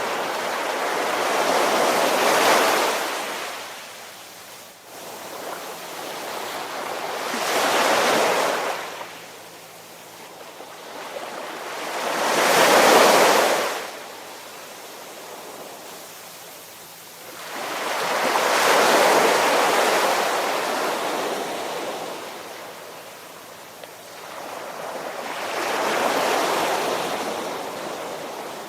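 Ocean surf: waves swelling up and washing in, then drawing back, five slow surges about every five to six seconds.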